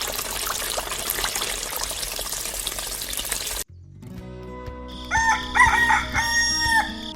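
A steady hiss for about three and a half seconds cuts off suddenly. Then a rooster crows over faint background music, in a few drawn-out pitched calls near the end.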